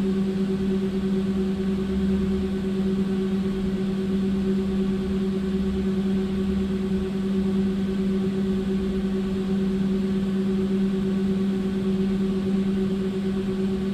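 Steady electric hum inside a tram, one held low tone with a fainter one above it, over a low rumble that fades about halfway through.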